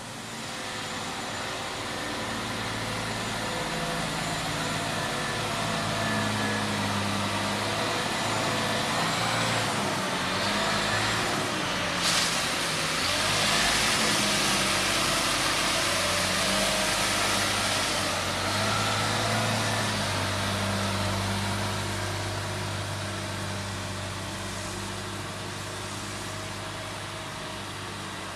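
Diesel engine of a 2006 Freightliner M2 water truck running, its pitch shifting up and down. About twelve seconds in, a loud hiss starts suddenly and lasts around six seconds over the engine.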